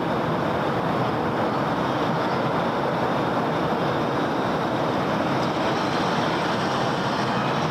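Steady, dense city road-traffic noise: a continuous wash of passing vehicles with no single car, horn or event standing out.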